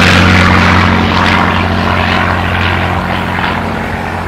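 Propeller aircraft engine passing overhead, a steady low drone that grows fainter as the plane moves away.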